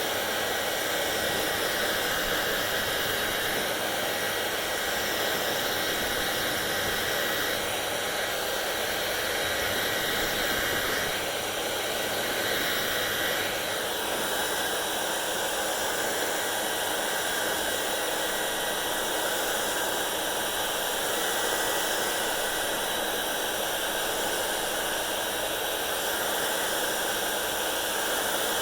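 Hair dryer running steadily: a constant rush of blown air with a thin high whine on top. The tone shifts slightly about halfway through.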